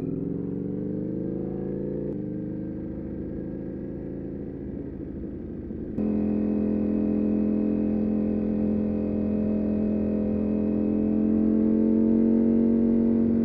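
Motorcycle engine running under way, its note rising over the first couple of seconds and then holding. About six seconds in the sound jumps to a louder, steadier engine note that swells slightly near the end.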